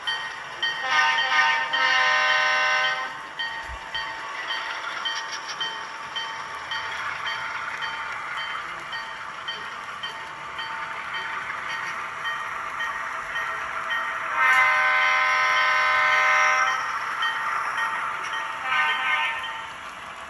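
Sound-equipped HO scale model locomotive running, its onboard speaker playing a steady diesel engine sound with a regular light ticking. It sounds a long horn blast about a second in, another about fourteen seconds in, and a short toot near the end.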